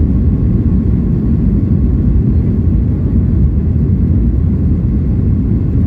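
Steady, loud, low rumble inside the cabin of a Boeing 737 MAX 8 airliner, from its CFM LEAP-1B engines and the aircraft's movement, holding level with no rise or fall.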